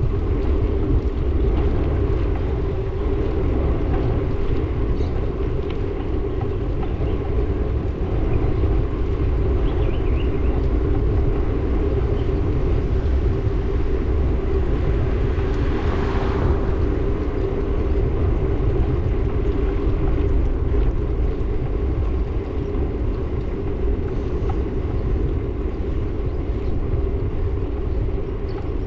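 Steady rumble of riding along a road, with a vehicle passing about halfway through.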